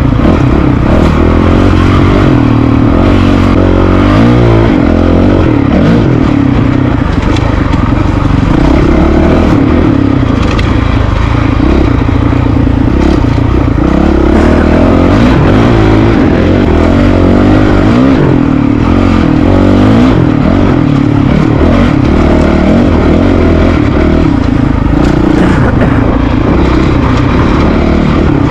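Honda CRF450RL's single-cylinder four-stroke engine under riding load, its revs rising and falling again and again as the bike is ridden off-road.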